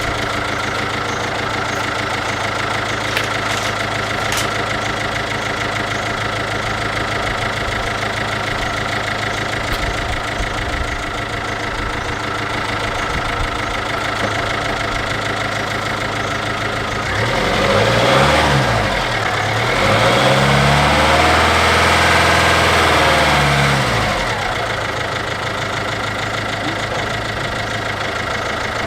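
MINI R56's 1.6 HDi DV6 diesel engine running at idle, revved up and back down a little over halfway through, then revved again and held higher for about three seconds before falling back to idle.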